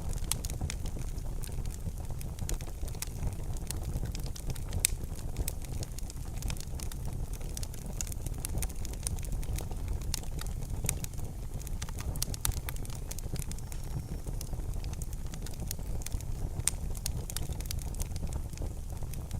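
Wood fire crackling in a fireplace: many sharp, irregular pops and snaps over a steady low rumble of the burning.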